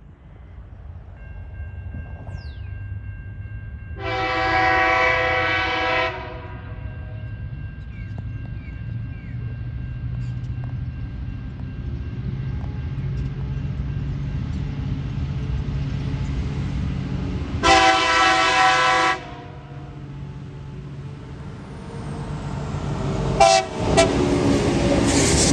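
Diesel freight locomotives approaching a level crossing, their engine rumble growing steadily louder. The lead locomotive sounds its horn twice: a two-second blast about four seconds in and a shorter one about eighteen seconds in. A steady high electronic tone from the crossing's warning device fades out partway through, and near the end the locomotives pass close by with a loud rush of engine and wheel noise.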